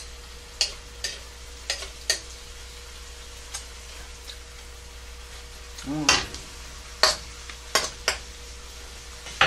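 Beef strips frying in a wok with a steady sizzle, stirred with a utensil that clicks and scrapes against the pan several times.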